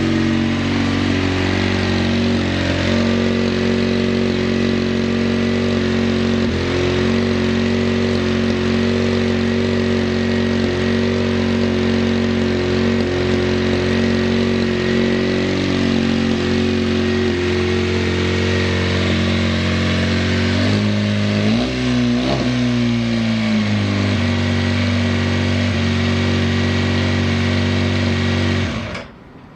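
Kawasaki ZXR400R2 inline-four engine idling steadily around 2000 rpm, with no abnormal noise. Its pitch briefly rises and falls about 21 seconds in. Near the end it cuts off suddenly.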